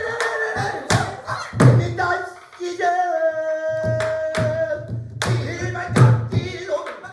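Pansori singing accompanied by a buk barrel drum: the voice moves between pitches and holds one long note in the middle, while the drum sounds a string of sharp, unevenly spaced strokes with a deep thump.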